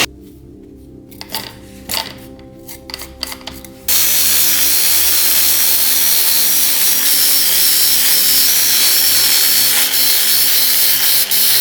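A few light clicks and knocks of handling, then from about four seconds in a power tool runs with a loud, steady abrasive noise as it works on a part.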